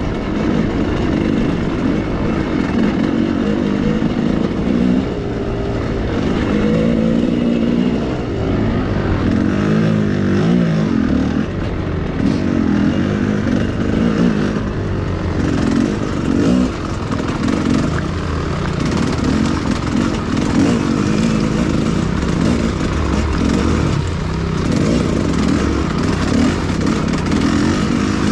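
Enduro motorcycle engine running continuously, its pitch rising and falling over and over as the throttle is worked.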